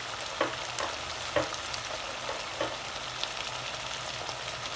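Vegetables and spices frying in oil in a pan with a steady sizzle while a spoon stirs them, giving four or five short knocks against the pan in the first three seconds.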